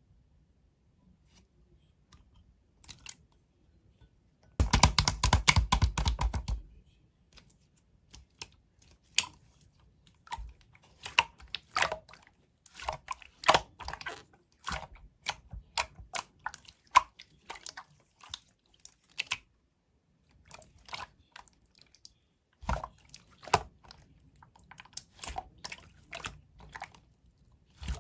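Slime being squeezed and poked by hand, giving sticky clicks and air-bubble pops. About five seconds in comes a dense two-second run of rapid crackling clicks, the loudest part, followed by scattered single clicks and pops.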